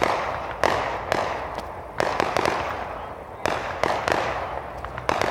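Fireworks bursting one after another, about one to two sharp bangs a second, each fading off in a trailing echo, with smaller pops between them.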